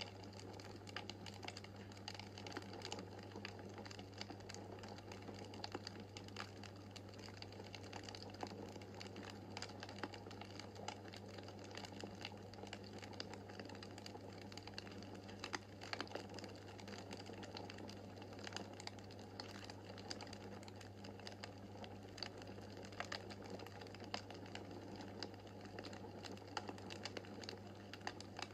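Wood fire crackling in a fireplace: a constant stream of small pops and snaps, some sharper than others, over a steady low hum.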